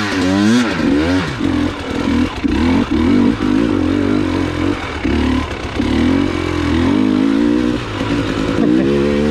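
Dirt bike engine revving under hard throttle, its pitch rising and falling again and again as the rider blips and rolls the throttle, with a sharp rev-up about a second in.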